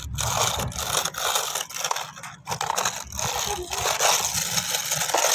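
A fat-tyred toy car pushed along rough ground, its wheels crunching and scraping with an irregular crackle.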